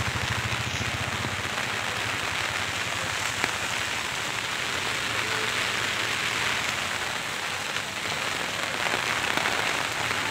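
Heavy monsoon rain falling steadily, pattering on the umbrella held overhead and on the wet street.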